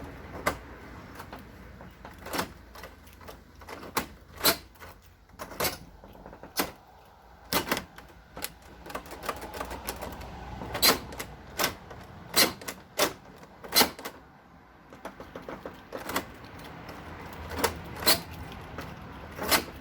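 Irregular sharp metallic clicks and clacks, some in quick pairs, from a door handle and lock mechanism being reassembled and worked after its broken springs were replaced.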